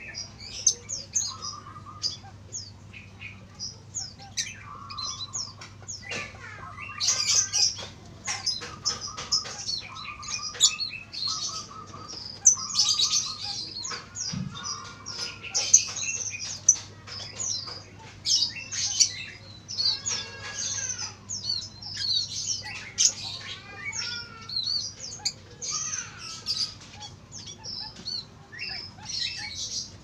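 Small birds chirping and tweeting busily in quick, high, overlapping calls, over a faint steady low hum.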